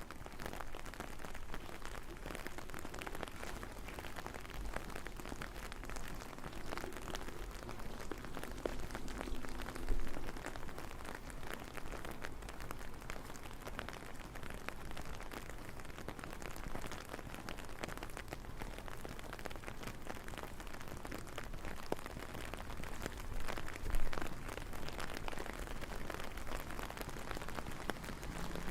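Steady rain falling, a continuous hiss dense with fine drop ticks, with two brief louder low thumps, about ten seconds in and again near twenty-four seconds.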